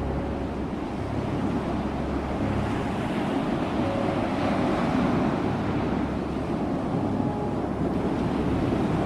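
Ocean surf: waves breaking and washing ashore in a steady rush that swells a little midway.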